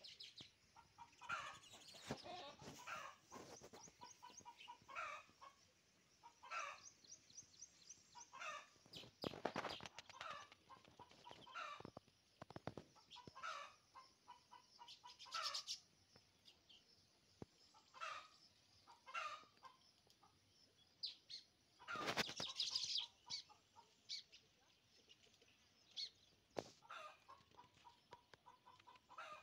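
Birds calling: scattered short chirps and fast chattering runs of repeated notes, with a brief louder rustling burst a little over twenty seconds in.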